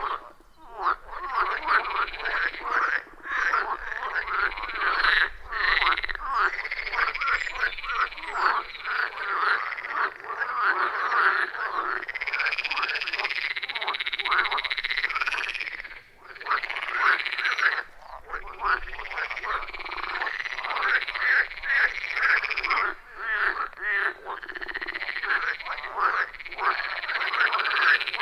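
A loud chorus of many frogs calling at once, their croaks overlapping in dense, rapid runs. The chorus briefly drops away a little over halfway through, then picks up again.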